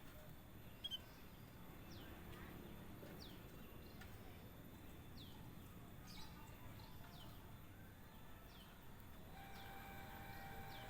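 Faint bird calls: short, high chirps that slide downward, repeated every second or so, with one brief sharper note about a second in, over a low background hiss.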